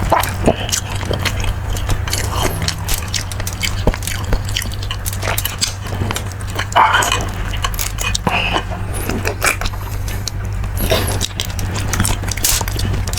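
A person biting and chewing beef shank and marrow close to the microphone, with irregular wet smacks and clicks throughout. A steady low hum runs underneath.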